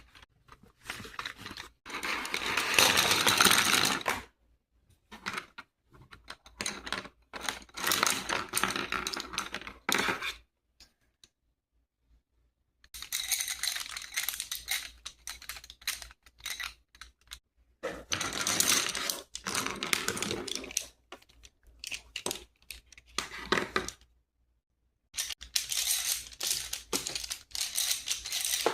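Close-up rapid clicking and crackling, like tapping or crinkling small hard objects. It comes in spells of a few seconds, with silent gaps about four, eleven and twenty-four seconds in.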